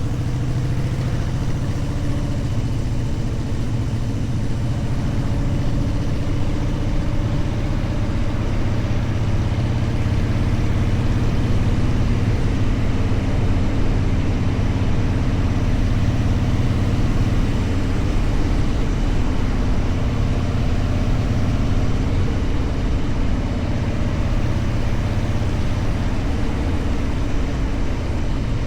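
Motorcycle engine running at a fairly steady pitch.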